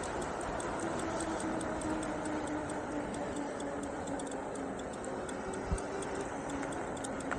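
Electric hub motor of an Engwe Engine Pro e-bike whining while riding, its pitch slowly falling as the bike slows, over wind and tyre noise. A fast, even ticking runs underneath, and there is a single bump about six seconds in.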